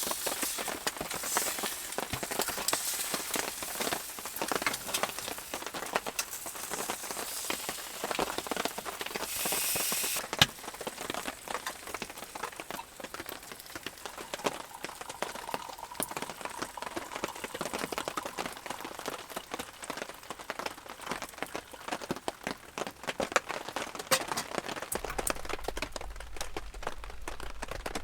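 Rain pattering steadily, a dense run of fine drips and ticks, with one sharper tick about ten seconds in.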